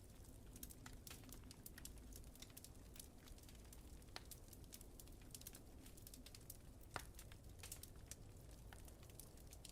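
Wood fire crackling in a fireplace: irregular small snaps and ticks, with one louder pop about seven seconds in, over a low steady rumble.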